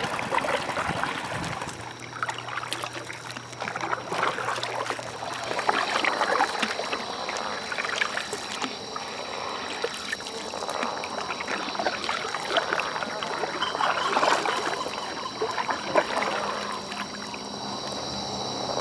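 Rain water trickling and splashing. From about five seconds in, a steady high-pitched frog chorus joins and grows louder toward the end; these are monkey tree frogs.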